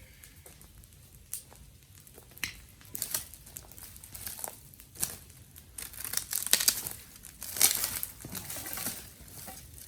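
Dry twigs and sticks crackling and snapping in irregular sharp cracks, sparse at first, then a denser, louder run of crackling from about six to nine seconds in.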